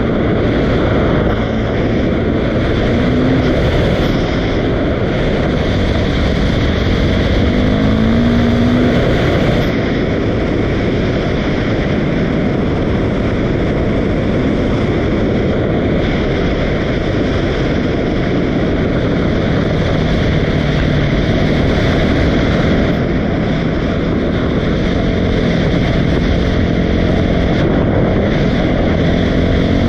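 Dirt bike engine running under way, mixed with a steady loud rush of noise; the engine pitch rises briefly a few times.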